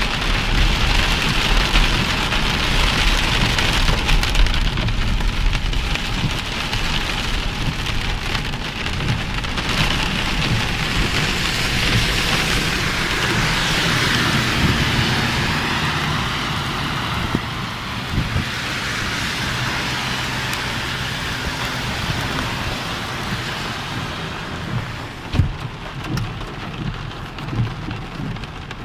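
Heavy rain falling and pattering steadily on surfaces, a continuous hiss that eases a little near the end.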